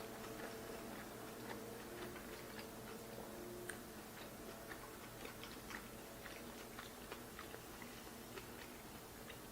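Faint chewing of injera and chopped greens, with soft irregular mouth clicks and smacks.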